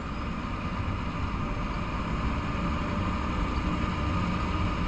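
Gravel truck's diesel engine running steadily and slowly getting louder as the driver tries to pull out of snow in second or third gear.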